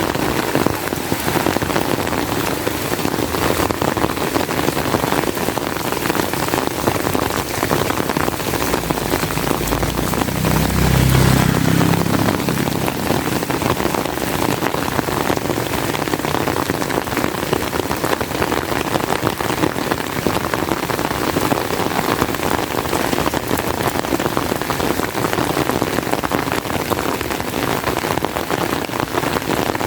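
Heavy rain falling steadily. About ten seconds in there is a low rumble lasting a couple of seconds.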